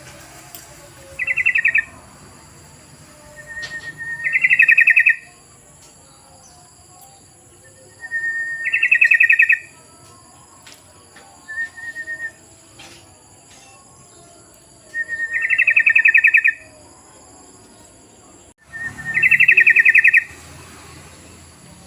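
Yellow-vented bulbul (trucukan) song: five loud, bubbly trilled phrases, most of them opening with a short steady note, repeated every few seconds. A faint steady high-pitched whine runs underneath.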